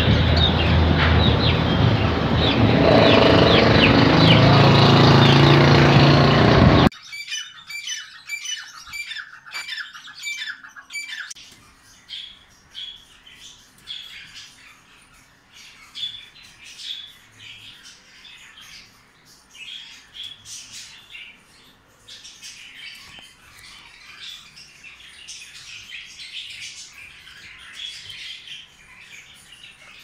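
Many caged birds chirping and squawking over a loud, dense background noise. About seven seconds in the sound cuts suddenly to a much quieter scene where birds keep chirping, first in a quick regular run for a few seconds, then in scattered calls.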